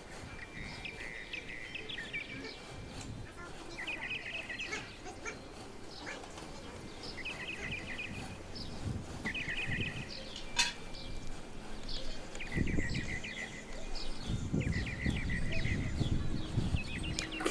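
Small birds chirping, with short trilled calls repeating every second or two. There is a sharp click about ten seconds in, and low rumbling noise in the last few seconds.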